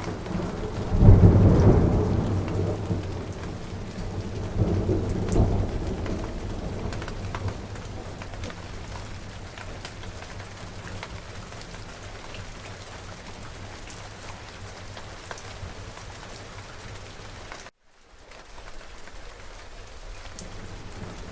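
Steady rain with a loud thunderclap about a second in that rumbles on and fades, then a second rumble of thunder about five seconds in, leaving the rain hiss alone. Near the end the sound cuts out for a fraction of a second before the rain comes back.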